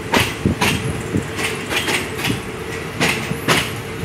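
Railway carriage running along the track: a steady rumble of the wheels with sharp clickety-clack clicks in pairs as the wheels cross rail joints.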